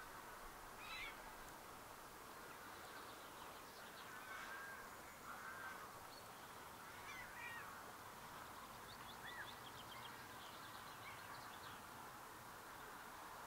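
Faint wild birds calling: short scattered chirps and calls, with a quick rattling trill about two-thirds of the way through, over a steady low hiss.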